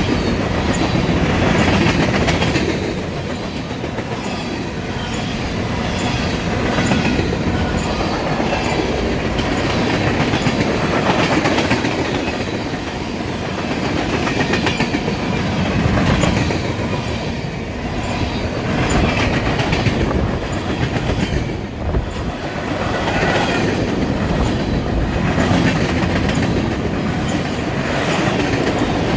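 Freight cars of a manifest train rolling past, steel wheels clicking over the rail joints, the rumble swelling and easing every few seconds.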